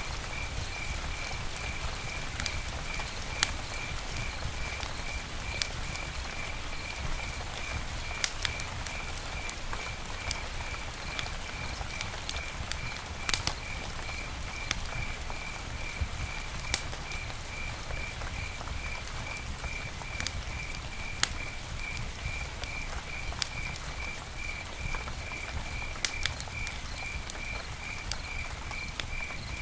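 Campfire crackling, with irregular sharp pops over a steady low rumble and hiss. Behind it, a high chirp repeats evenly, about two to three times a second.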